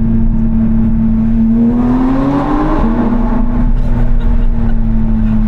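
Porsche 911 GT3 RS (992) naturally aspirated flat-six with a valved titanium exhaust, running at a steady drone. Its pitch rises for about a second under acceleration, drops abruptly about three seconds in, then holds steady again.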